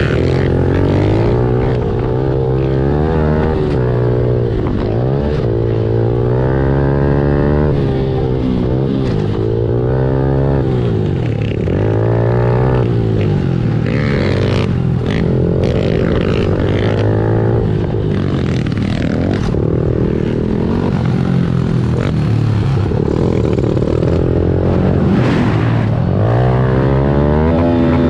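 Honda CRF110 pit bike's small single-cylinder four-stroke engine being ridden hard, revving up and falling back over and over, its pitch rising and dropping every second or two as the throttle is worked.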